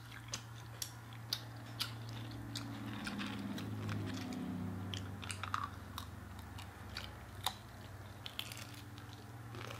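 Close-miked eating: chewing and crunching bites of fried chicken wings and tortilla chips, with sharp mouth clicks and crackles scattered throughout over a steady low hum.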